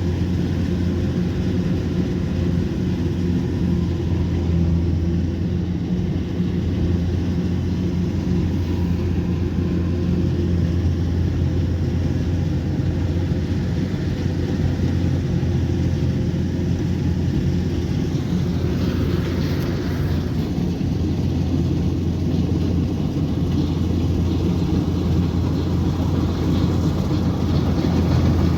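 Kubota combine harvester's diesel engine running steadily under load with a continuous low drone and mechanical clatter, with a brief hiss about two-thirds of the way through.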